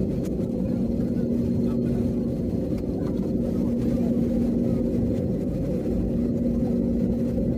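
Airbus A321neo engines running at idle while taxiing, heard inside the passenger cabin: a steady low rumble with a steady hum.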